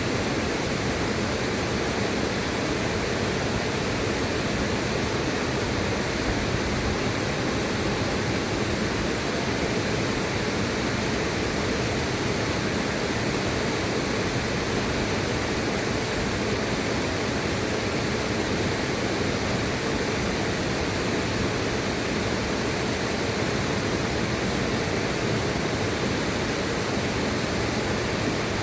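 Steady rushing of a river, heard as an even wash of noise across low and high pitches with no change or separate events.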